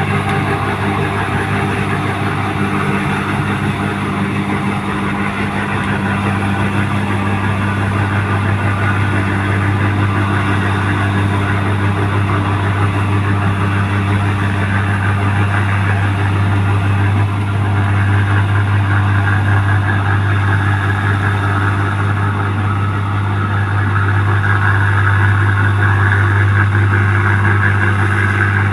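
New Holland 1545 rice combine harvester running steadily, its engine giving a constant low hum that grows a little louder in the second half.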